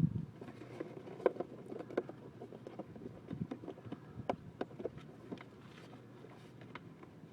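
Irregular light clicks and knocks of motorcycle air filter and airbox parts being handled and fitted back into place by hand.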